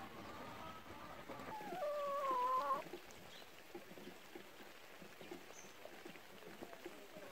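A chicken gives one drawn-out, slightly wavering call lasting just over a second and ending abruptly, about a second and a half in, after fainter calls at the start.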